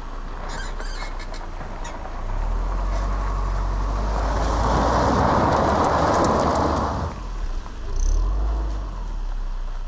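Subaru Forester driving on a steep dirt bush track: a steady low engine rumble, with a rush of tyre noise on the loose surface swelling for several seconds in the middle and a short surge of engine near the end.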